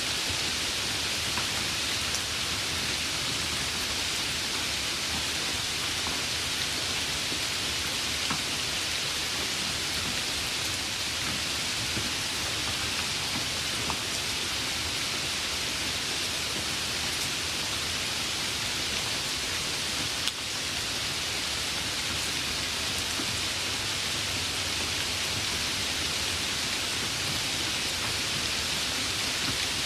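Steady rainfall: a dense, even hiss of rain with a few single drops ticking now and then.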